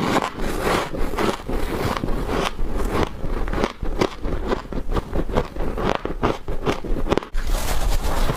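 Frost being bitten and chewed close up: a fast, irregular run of crisp crunches, with a brief pause about seven seconds in.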